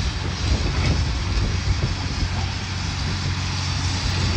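Heavy diesel demolition equipment running steadily with a low, even hum, with faint knocks of debris now and then.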